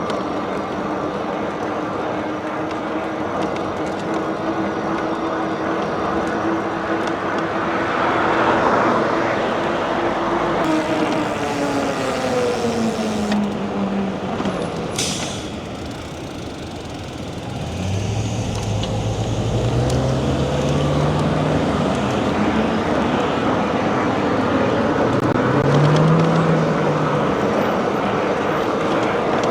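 Road traffic and wind noise heard while riding along a street. A steady hum drops in pitch about ten seconds in, and low motor-vehicle engine tones rise and fall through the second half.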